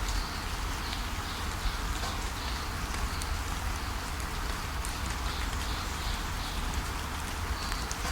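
Waterfall rushing steadily, with a bird repeating short, high chirps over it.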